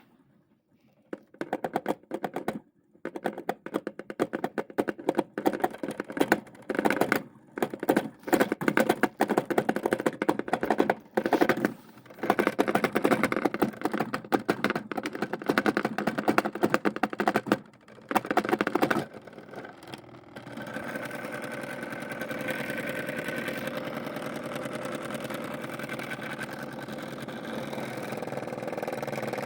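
Washing machine with wheels and tires in its drum: a rapid clattering in repeated bursts of a second or two with short gaps, for about 20 seconds. Then a steady machine hum with a faint whine takes over.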